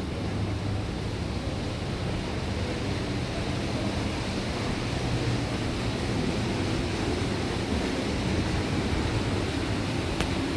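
Tour boat under way: a steady low engine drone mixed with rushing water and wind noise.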